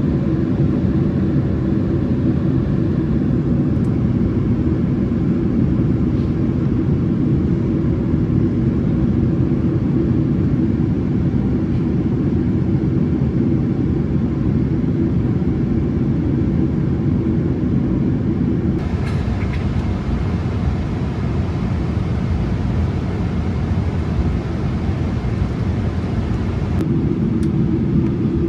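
Steady low rumble of engine and airflow noise inside the cabin of a Boeing 777-300 airliner. About two-thirds of the way through, the rumble thins and a brighter hiss comes up for several seconds, then the fuller rumble returns.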